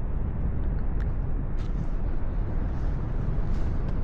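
Wind rushing over the microphone in flight under a tandem paraglider, a steady low rumble, with a faint click about a second in.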